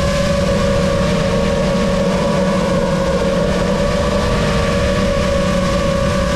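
Lumenier QAV-S 5-inch FPV quadcopter's brushless motors and propellers whining steadily in flight, the pitch drifting slightly up and down.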